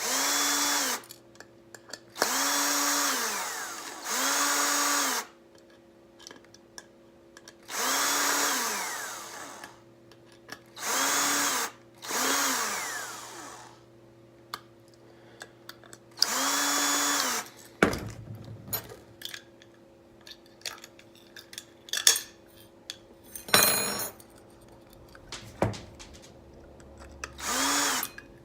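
Cordless drill-driver run in short bursts of about a second, nine times, its motor whining up to speed and winding down each time, working on hard drive screws. In the last third, light clicks and clinks of small metal parts being handled.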